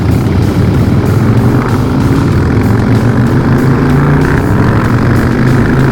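Harley-Davidson Night Train V-twin engine running under way, a steady drone that shifts slightly in pitch, with wind rush.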